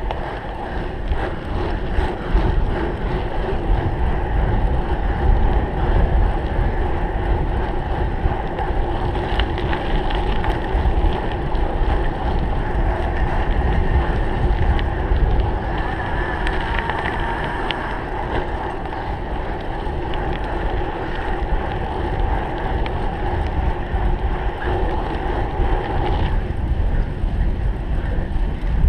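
Cyclocross bike ridden hard on the race course, heard from a camera on the bike or rider: steady wind buffeting on the microphone with tyre noise and the frame and chain rattling over rough ground.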